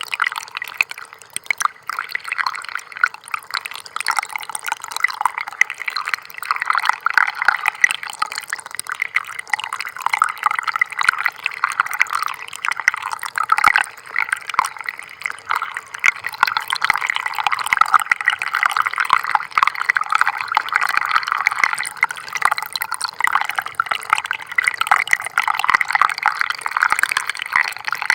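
Small stream of water trickling over stones, a steady busy patter of little splashes and drips with little low rumble.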